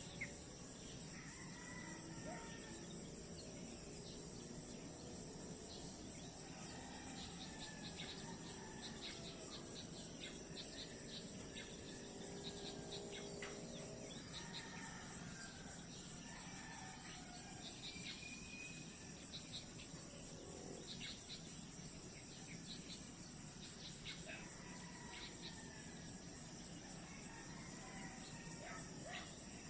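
Faint nature ambience: a steady high-pitched insect chorus of crickets, with scattered short bird chirps and whistles over it.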